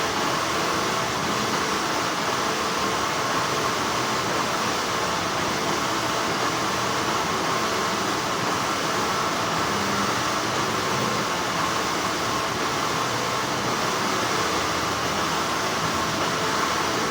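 Steady, continuous hum of textile factory machinery, an even whir with a faint held whine and no breaks.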